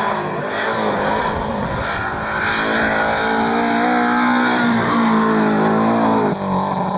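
Rally car engine under hard acceleration, its pitch climbing steadily over several seconds, with tyre noise underneath; the sound changes abruptly about six seconds in.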